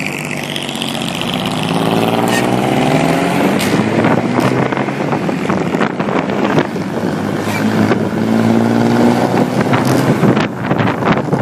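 A 1950s car's engine accelerating, its pitch rising over the first few seconds and pulling again later on, with wind buffeting the microphone.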